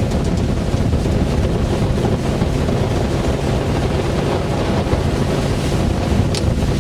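Wind buffeting the microphone on deck of a tuna fishing boat at sea, over the steady drone of the boat's engine and the wash of the sea.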